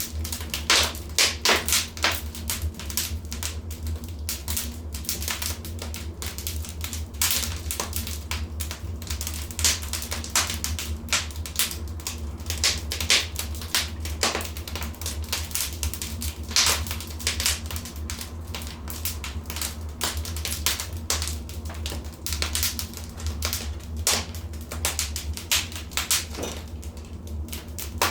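Wood fire in a fireplace crackling and popping at irregular intervals, over a steady low rumble.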